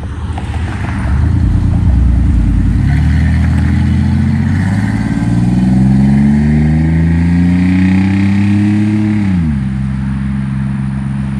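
A car engine accelerating hard, its pitch climbing steadily for several seconds, then falling sharply about nine seconds in and settling to a steady lower note.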